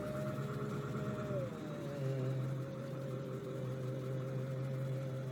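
Vehicle engine running steadily with a low hum, its pitch easing down slightly about a second and a half in.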